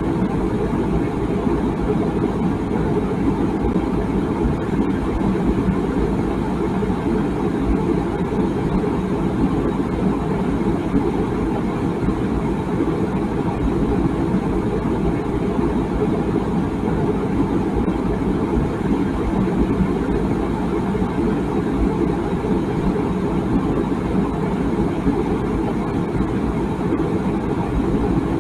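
Water boiling in a tea kettle: a steady, low, even rumble with no whistle.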